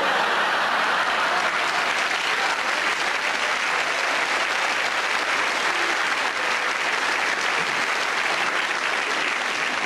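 Theatre audience applauding steadily: a dense, even clapping from a large crowd.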